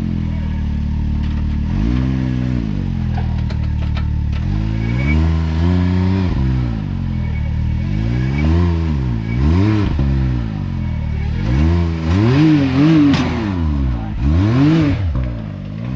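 Side-by-side UTV engine revving up and down in repeated throttle blips as it works up a rock ledge. There are about eight rises and falls, quicker and louder in the last few seconds.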